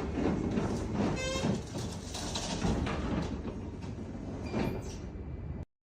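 Roll-up garage door shutter running, its metal slats clattering and rumbling steadily, with a short squeal about a second in. The sound cuts off suddenly near the end.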